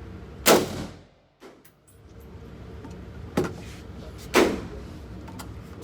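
Gunshots on a shooting range: two loud shots about four seconds apart, each with a short echo, and a fainter crack between them.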